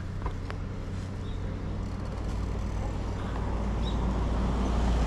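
Road noise heard while cycling: a steady low rumble of wind and traffic with a few faint ticks, growing louder over the last couple of seconds.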